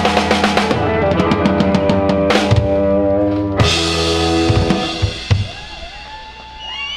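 Live rock band ending a song: a rapid drum fill with cymbal crashes over a held guitar chord, which rings out and dies away about five seconds in. A few gliding whoops follow near the end.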